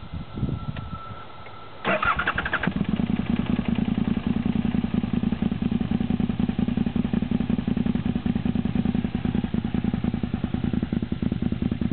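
2004 KTM 950's 942 cc V-twin cranked on its starter for about a second, then catching and settling into a steady idle. It idles through a Wings two-into-one muffler with the larger baffle insert fitted, and the exhaust note is pretty quiet.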